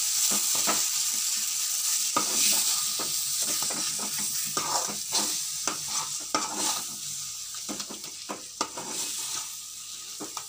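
Thick tomato-onion masala sizzling in oil in a metal kadai as a ladle stirs it, with many short scrapes and knocks of the ladle against the pan. The masala is being fried down with its spice powders.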